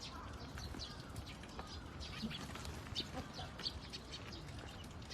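Birds chirping: many short, high chirps in quick succession, over a steady low background noise.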